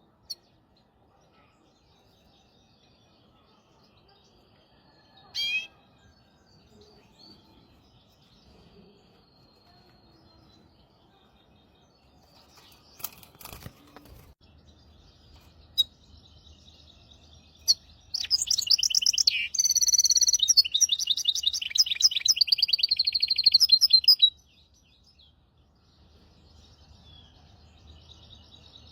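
Hybrid finch (goldfinch × canary mule) singing. Faint scattered twitters, with one short loud call about five seconds in, then a loud, fast trilling song phrase lasting about six seconds past the middle.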